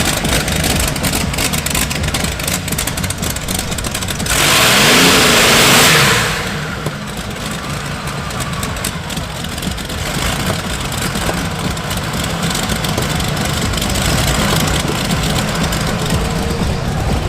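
Modified pulling tractor's engines running and revving, with a loud rushing hiss for about two seconds around four seconds in.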